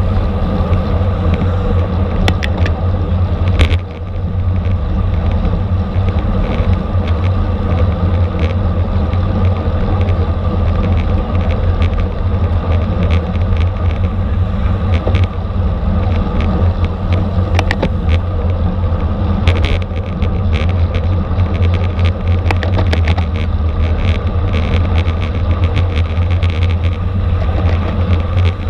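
Steady rush of wind and road rumble picked up by a camera riding on a racing bicycle at speed, with scattered short clicks from the bike.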